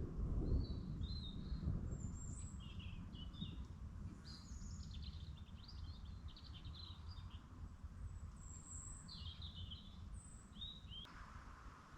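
Songbirds singing in short, varied chirping phrases, over a low rumble that fades during the first few seconds.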